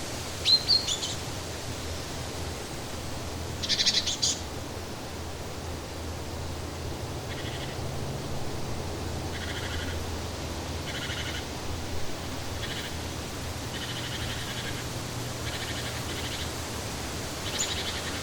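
Songbirds calling over a steady rush of flowing water. There is a quick chirp near the start and a loud, rapid trill about four seconds in, then a string of short, repeated pulsed calls through the middle and another trill near the end.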